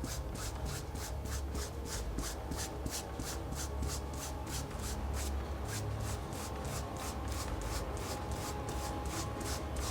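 A copper wire brush scrubbed back and forth over cloth in quick, even strokes, about four a second, making a rasping sound. The brushing wears the fabric to tear it and pull the threads out.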